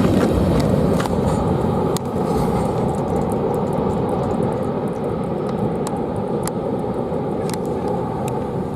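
Freight train rolling past: a steady rumble and rattle with scattered sharp clicks, slowly getting quieter.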